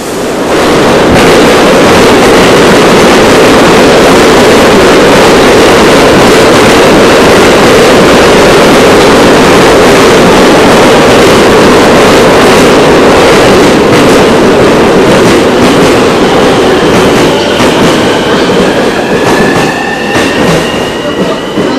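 A JR E231-series electric commuter train runs into the station platform at speed. It makes a very loud, steady rush of wheels and moving air, which eases as the train slows. In the last few seconds, thin whining tones that rise slightly come from the braking train.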